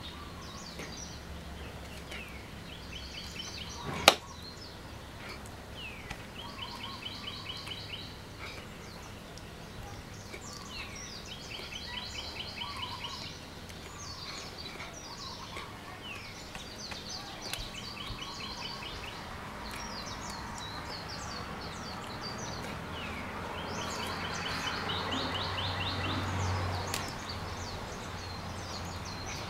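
Birds calling in short bouts of rapid, trilled high notes, repeating every few seconds over steady outdoor background noise. One sharp click about four seconds in, and a swell of rushing noise near the end.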